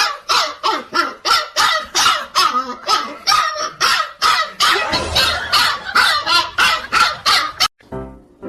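A dog barking over and over in quick, even succession, about three barks a second, until the barking cuts off abruptly near the end.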